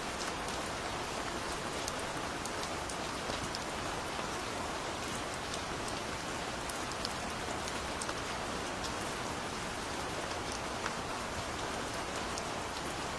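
Steady gentle rain falling, an even hiss with scattered individual drops ticking through it.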